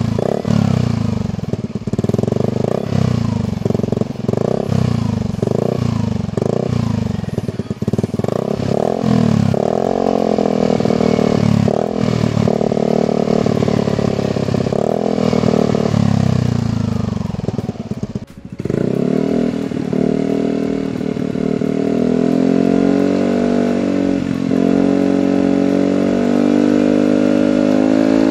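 A Yamaha NMAX's single-cylinder engine is being revved through an aftermarket long oval DOS-style replica silencer. The first third is quick repeated throttle blips, followed by longer rising and falling revs. After a brief dip about two-thirds through, the engine is held at steadily higher revs.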